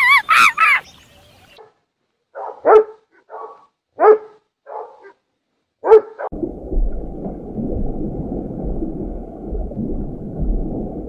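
A dog barking and yipping: about seven short barks, a few of them loud, with gaps between. It starts a couple of seconds in, after a rapid run of high calls dies away under a second in. After the barks, a steady low rushing noise runs to the end.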